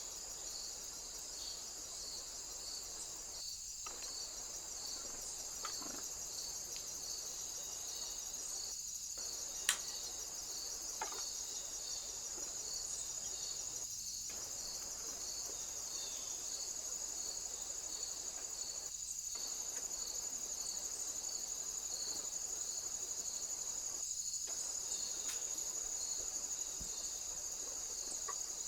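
Crickets or similar insects chirping steadily: a continuous high trill over a slower row of pulsed chirps. Brief dropouts come about every five seconds, and a single sharp click sounds a little under ten seconds in.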